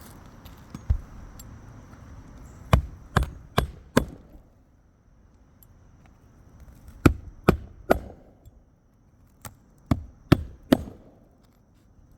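Hammer strikes on a shingle roof during a shingle repair, in quick groups of three or four blows about half a second apart with pauses between.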